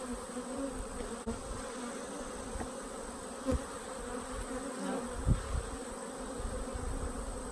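Many honeybees buzzing steadily around an open hive, with two short low thumps about three and a half and five seconds in.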